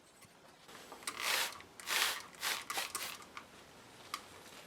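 Handling noise from bench work: a run of short rustling, scraping strokes starting about a second in, then a faint click near the end.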